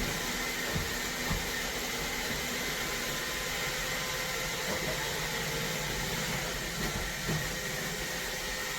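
iRobot Roomba 692 robot vacuum running with a steady motor and brush hum, with a couple of faint knocks about a second in and again near seven seconds.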